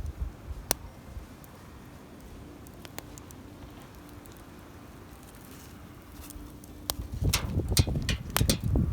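Wood campfire crackling, with a few sharp pops spread over the first seven seconds. About seven seconds in, louder close rustling and clattering begins, with a rapid run of clicks.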